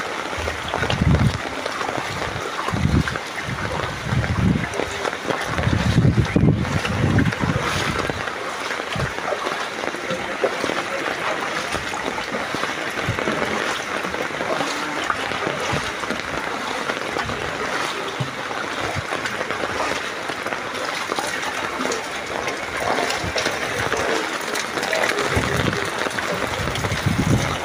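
Heavy rain falling steadily, with water sloshing and splashing in floodwater, and a few low muffled sounds in the first several seconds.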